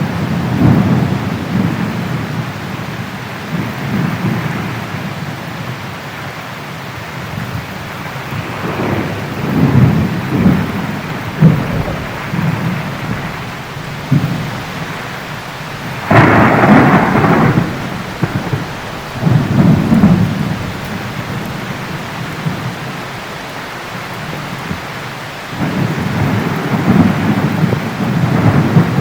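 Heavy rain falling steadily with rolling thunder rumbling again and again, and one sharper, closer thunderclap about halfway through.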